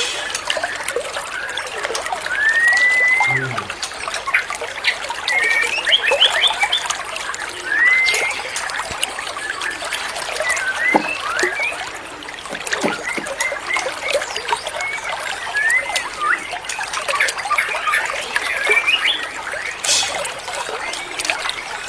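Water trickling and splashing steadily, with bird calls over it: a short whistle that rises and then levels off, repeated every five to six seconds, and scattered quick chirps between.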